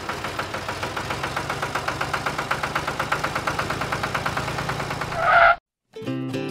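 Small tractor engine running with a quick, even chugging beat. Near the end a short, louder two-tone sound rises over it, then everything cuts off suddenly and music begins.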